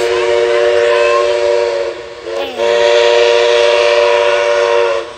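A locomotive's chime whistle sounding a chord of several notes in two long blasts, with a brief toot between them, as the train passes.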